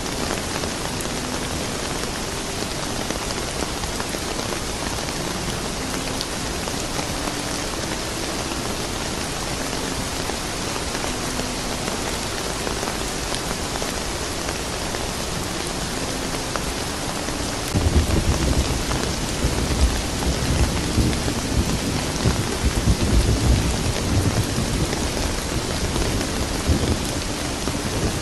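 Steady rain falling, with a low rumble of thunder that sets in about two-thirds of the way through and rolls on for several seconds.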